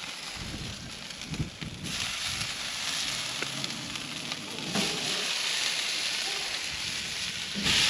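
Food sizzling in hot fat over an open fire, the sizzle growing louder in steps about two seconds in, again near five seconds and sharply near the end, with a few low knocks of handling.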